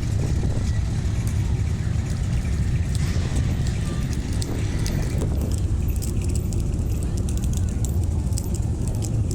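Steady low rumble of car engines running in traffic, with faint rapid ticks and crackles coming in about halfway through.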